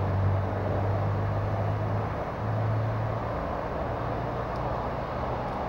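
An engine running steadily, a low drone that swells slightly for a moment in the middle, over a background hiss.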